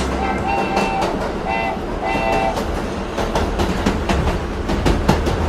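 Cartoon train sound effect: wheels clacking steadily over rail joints, with a few short whistle toots in the first couple of seconds.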